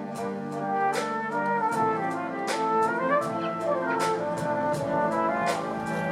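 Brass band music: trumpets and trombones holding and changing chords, with percussion strokes marking the beat.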